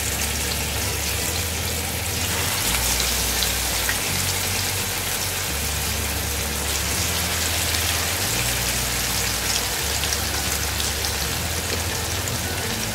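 Masala-coated tuna steaks frying in hot oil in a pan: a steady sizzling hiss with crackles.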